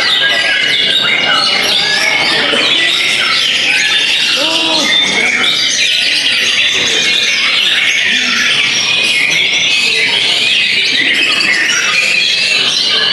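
Several white-rumped shamas (murai batu) singing at the same time, a dense unbroken tangle of quick chirps, trills and whistles.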